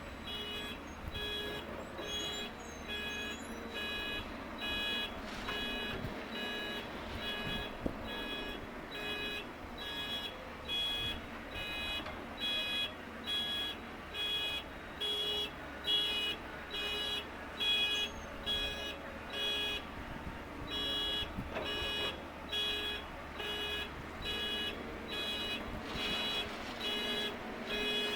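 A construction machine's reversing alarm beeping steadily, about one and a half beeps a second, over a diesel engine running.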